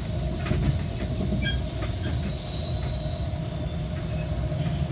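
Metra commuter train rolling along the track: a steady low rumble with a few faint clicks from the wheels over the rails.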